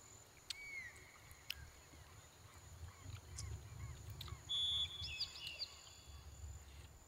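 Birds chirping and calling, many short chirps with a brief clear whistled note about four and a half seconds in, over a low rumble and a couple of sharp clicks.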